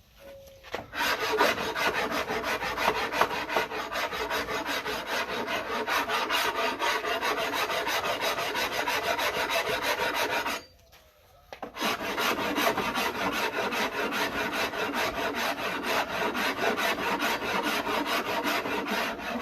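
Wood rasp carving the back of a wooden bass neck in quick, steady strokes, with a pause of about a second midway before the rasping resumes.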